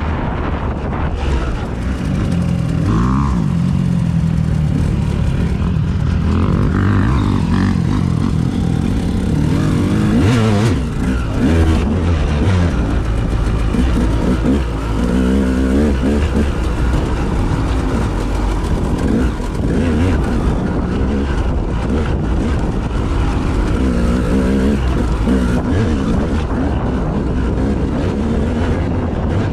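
A motor vehicle's engine running on the move, its pitch rising and falling as it speeds up and slows, over a steady low rumble of wind noise on the microphone.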